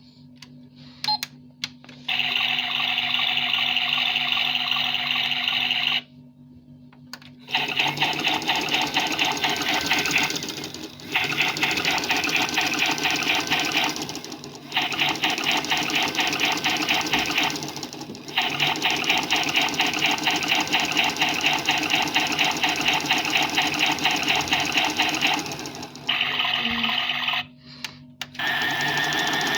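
Washing machine running with a fast mechanical rattle, in runs of a few seconds that stop briefly and start again.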